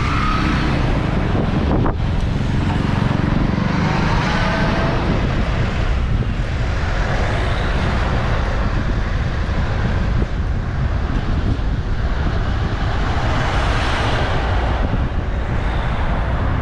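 Wind rushing over a bike-mounted GoPro Hero 8's microphone while riding, mixed with road traffic. The heavy low rumble swells and eases every few seconds.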